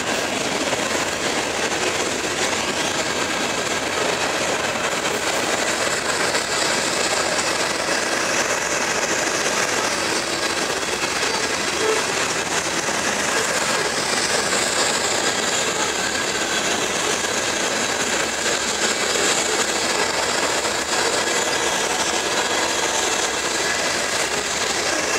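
Loaded coal hopper cars of a slow freight train rolling past: a steady rumble and rattle of wheels on rail. A faint, high, wavering squeal comes in from about halfway through.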